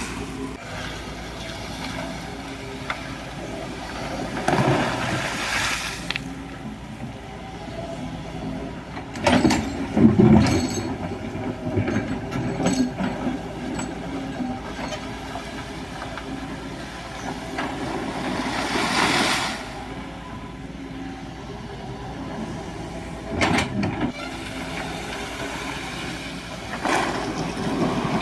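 Excavator's diesel engine running steadily, with the bucket scraping and clanking against gravel and stones several times.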